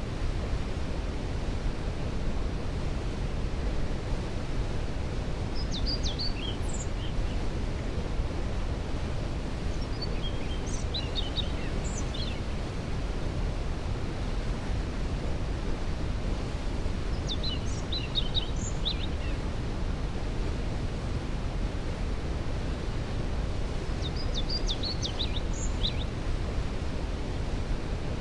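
Waterfall rushing steadily, a deep, even roar. Over it a songbird sings short, high, twittering phrases about every five to seven seconds.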